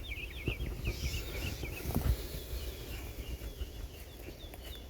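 Songbird chirping in quick runs of short, high notes, busiest in the first two seconds and fainter after, over a low steady rumble, with a soft thump about two seconds in.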